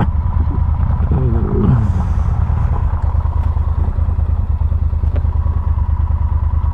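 Motorcycle engine running steadily at cruising speed on a gravel road, with an even low rumble.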